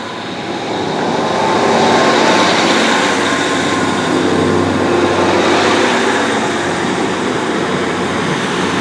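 Class 150 Sprinter diesel multiple unit pulling out of the station. Its diesel engines and wheels on the rails grow louder over the first couple of seconds, then run on loud and steady.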